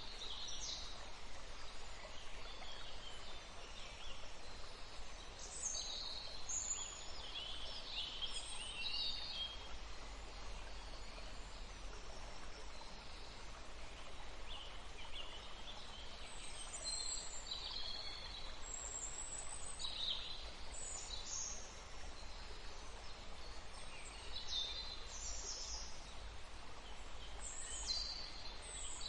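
Steady rush of flowing water with small birds chirping on and off over it, in short clusters of high calls.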